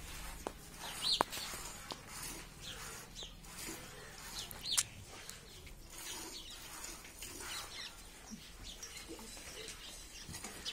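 Birds chirping in short high-pitched calls scattered throughout, two louder chirps about a second in and near five seconds.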